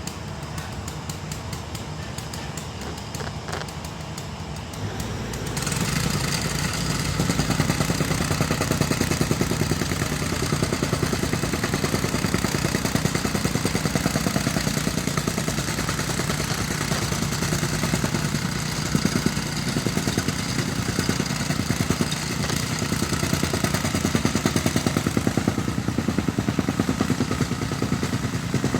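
An engine running steadily, growing louder about five seconds in and then holding at that level.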